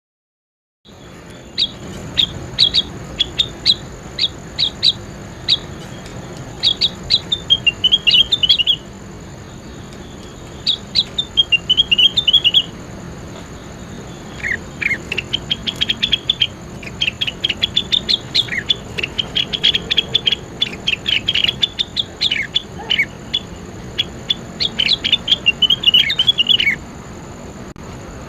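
A songbird singing in rapid runs of short, high chirps and quick sweeping notes, with brief pauses between the runs. The song starts about a second in after silence, and a faint steady high-pitched tone and hiss run underneath.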